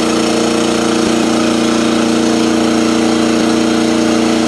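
Kubota diesel engine, temporarily fitted in a Simplicity 7117 garden tractor, running loud and steady at an even speed.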